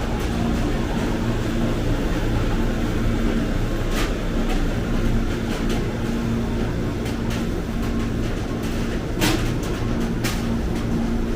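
Electric commuter train standing at the station, a steady low hum of its running equipment with a few sharp clicks.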